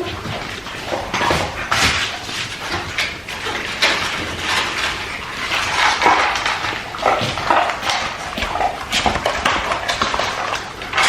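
A dog eating dry kibble: irregular crunching and chewing, with kibble rattling against the bowl.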